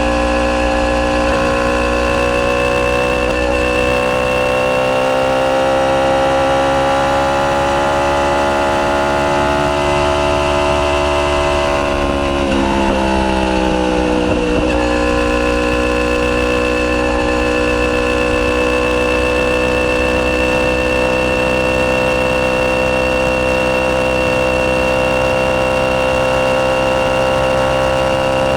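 Yamaha YZF-R1's crossplane inline-four engine, breathing through a decatted Akrapovic full titanium exhaust, running at fairly steady revs. The note creeps up slowly, dips as the revs fall about halfway through, then holds steady.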